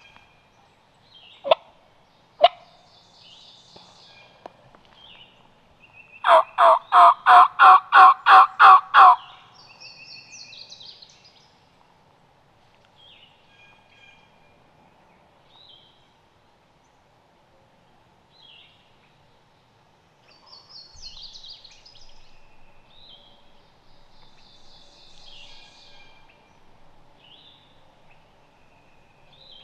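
A loud run of about ten turkey yelps, about three a second, lasting some three seconds, after two sharp clicks. Songbirds chirp faintly throughout.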